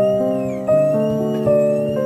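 Background piano music, with a new note or chord struck about every three-quarters of a second and left to ring.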